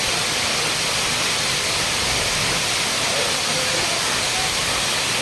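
Waterfall crashing into its pool: a steady, even rush of falling and splashing water, with faint distant voices under it.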